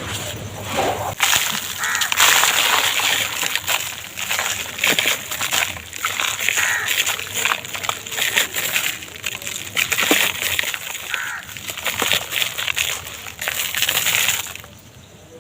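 Dry, brittle material being crushed and crumbled by hand: a dense, crackling crunch full of small snaps that eases off briefly near the end.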